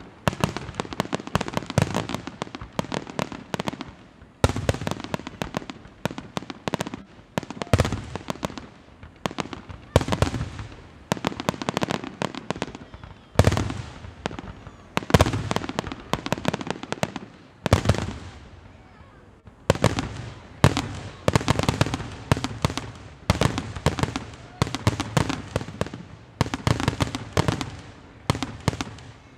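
Fireworks finale barrage: aerial shells bursting in rapid, overlapping volleys of booms and crackles, with short lulls between volleys and a longer dip about two-thirds of the way through.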